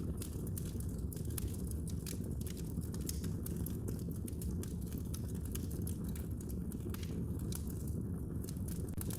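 Wood fire burning in a fireplace, with a steady low rumble of the flames and frequent irregular sharp crackles and pops.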